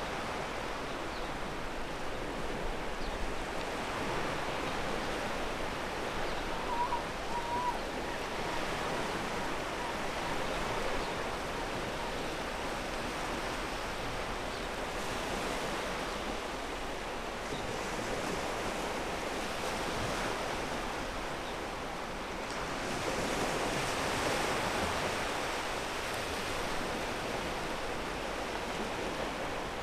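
Ocean surf breaking and washing over a pebble beach, a steady rush of water that swells for a few seconds about three quarters of the way through.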